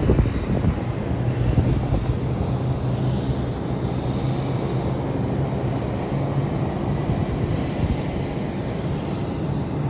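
Jet airliner engines running with a steady roar and low hum, with wind buffeting the microphone.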